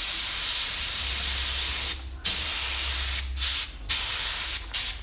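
Paint spray gun spraying 2-pack primer: a steady hiss of air and paint for about two seconds, a short break, then several shorter passes as the trigger is pulled and released.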